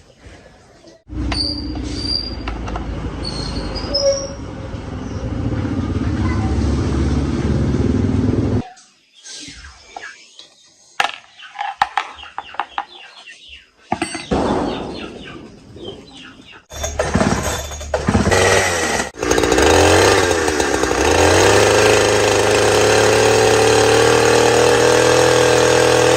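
Two-stroke engine of a restored Stihl chainsaw running, stopping for several seconds with scattered clicks, then running again, rising in pitch as it is revved and settling into a steady run.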